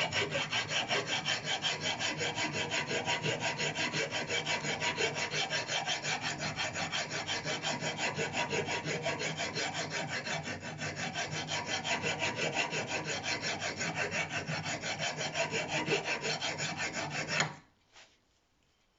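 Brake pad friction material being rubbed flat with rapid, even back-and-forth strokes, about six a second, which stop abruptly near the end. The pad's surface is uneven, and its high spots are being levelled to cure a brake squeal.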